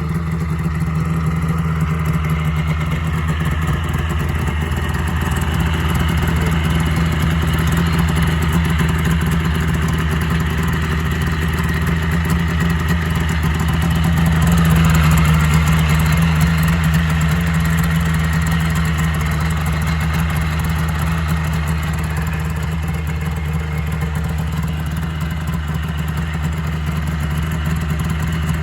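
Snowmobile engine idling steadily, rising a little in speed about halfway through before settling back.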